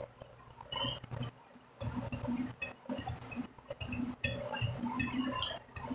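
A person chewing and smacking a mouthful of spaghetti and fried sausage in irregular wet clicks, with a metal fork clinking now and then against a glass plate.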